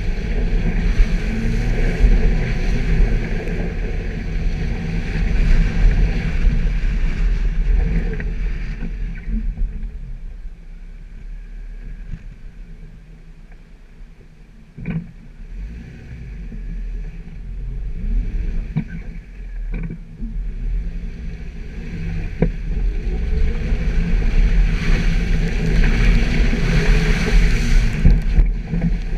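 Suzuki Jimny driving off-road: a steady rumble of engine and running gear that eases off to a quieter stretch in the middle, with a few sharp knocks, then builds again near the end.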